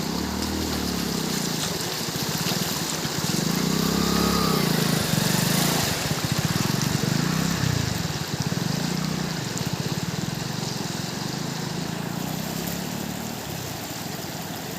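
Motor vehicle engines rising and falling in pitch as they pass one after another, loudest about halfway through, over a steady rush of water.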